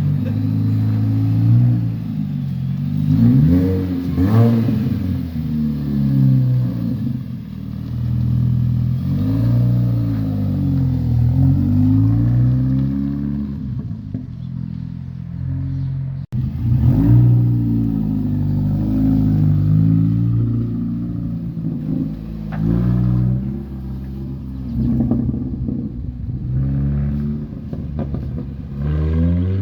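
2006 Mini Cooper S's supercharged 1.6-litre four-cylinder engine running straight-piped, with only a middle pipe and resonator and no muffler. It is revved up and let fall back again and again, with a sudden brief break about halfway through.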